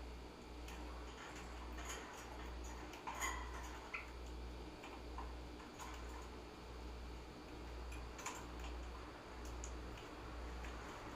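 Pet finches and parakeets in their cage: a few faint short chirps and scattered small clicks and taps, over a low hum that pulses about once a second.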